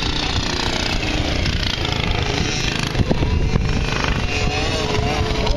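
Vintage racing motorcycle engines running hard, their pitch sliding up and down as they go by.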